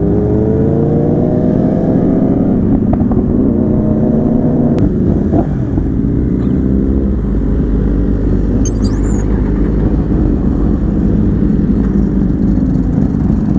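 Sport bike engine pulling up through the revs, its pitch rising for about four seconds, then an upshift with a sharp click and a shorter second rise before it settles into a steady low-rev cruise.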